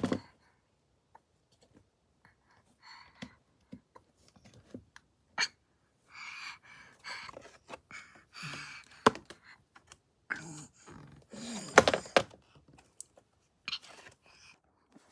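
Scattered clicks, knocks and rustling of small objects being handled, with the loudest knock about twelve seconds in.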